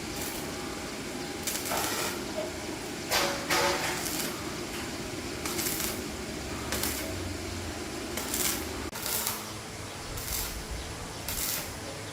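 Metal tools and parts clinking and clanking at irregular intervals, over a steady hum that stops about nine seconds in.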